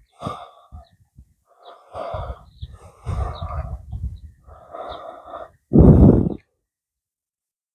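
A person's noisy breathing close to the microphone: a series of about five breaths or puffs, the loudest near the end.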